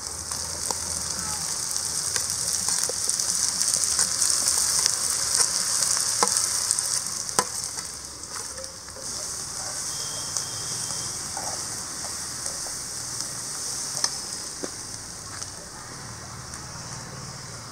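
Onion and green chilli sizzling in hot oil in a steel kadai on a gas flame as mashed sweet potato is scraped in off a steel plate, with sharp taps of a steel spoon against the plate. The sizzle eases off about halfway through.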